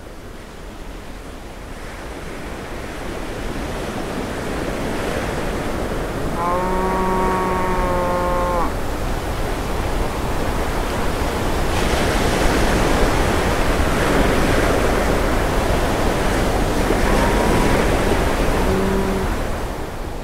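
Wind and ocean surf rushing steadily and growing louder. Over it, a cow moos once for about two seconds, about six seconds in, and a shorter moo comes near the end.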